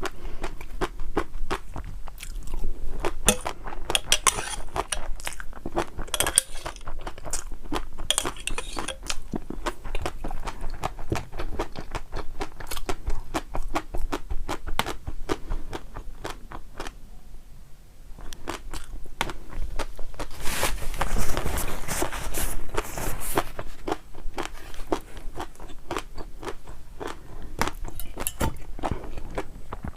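Close-miked eating: a person crunching and chewing food in quick, dense crackles. The crunching grows louder and denser for about three seconds a little past two-thirds through, with a brief quieter lull just before.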